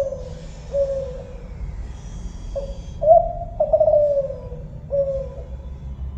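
Kelantan-type spotted dove (tekukur) cooing. One phrase tails off near the start, and a full phrase of short lead-in notes and longer falling coos begins about two and a half seconds in. A steady low hum runs underneath.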